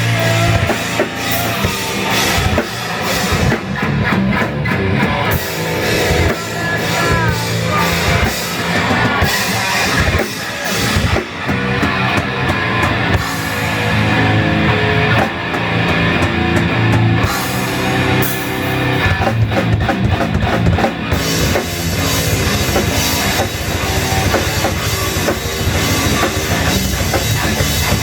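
A live heavy-metal jam on guitar and drum kit, with the cymbals dropping out for a few short stretches.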